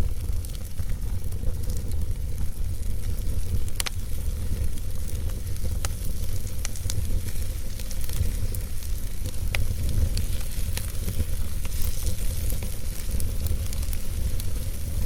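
Wood fire burning in a fireplace: a continuous hiss and crackle over a steady low rumble, with sharp pops at irregular moments, one about four seconds in and several more later.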